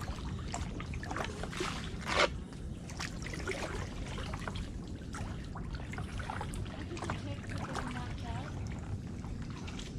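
Kayak paddle dipping into the water with small splashes and trickling drips, and one louder splash about two seconds in.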